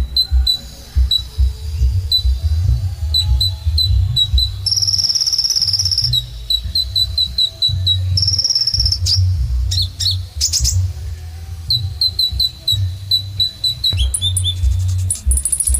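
Kolibri ninja sunbird singing: rapid runs of sharp, high chips broken by short buzzy trills, with a higher buzzy note near the end. An uneven low rumble runs underneath.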